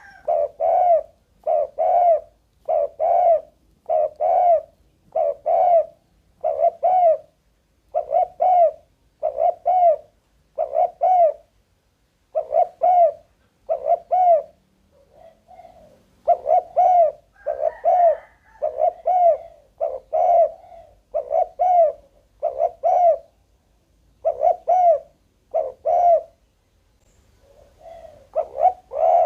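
Spotted dove cooing: a long series of short, low, hollow coos at about one per second, with a few brief pauses between runs.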